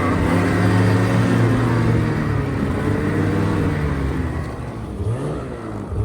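Snowmobile engine running under way, holding a steady note, then rising and falling in pitch as the throttle changes in the last couple of seconds.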